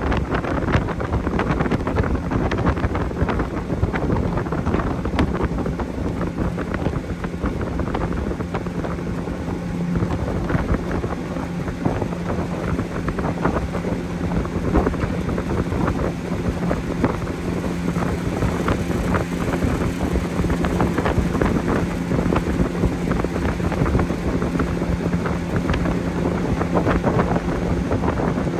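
Motorboat engine running steadily at speed, a constant low drone, with heavy wind noise on the microphone and many short knocks through it.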